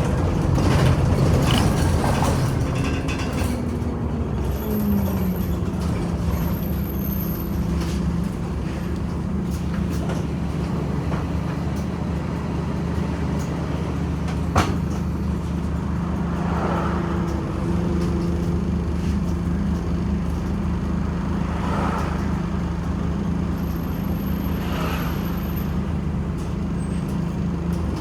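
Scania OmniCity city bus running. Its engine note falls over the first few seconds as the bus slows, holds steady for a long stretch, and starts to rise again near the end. There is a sharp click about halfway through and a few short hisses.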